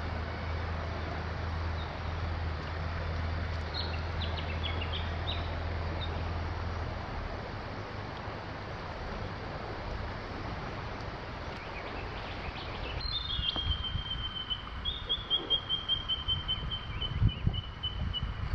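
Wild birds calling over a steady outdoor rush: scattered short chirps early on, then from about 13 s a long run of rapid repeated notes that slowly fall in pitch. Low knocks come in the last few seconds.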